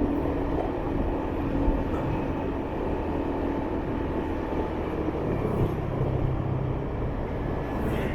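Motorbike being ridden, its engine and the road noise making a steady low drone.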